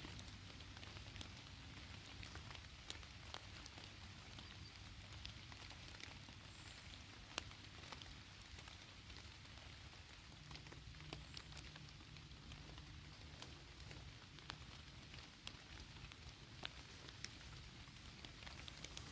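Light rain falling steadily, with scattered sharp ticks of single drops throughout.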